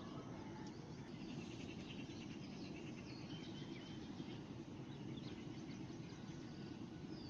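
Small songbirds chirping and tweeting in short calls, with a quick trill about a second in, over a steady low background noise.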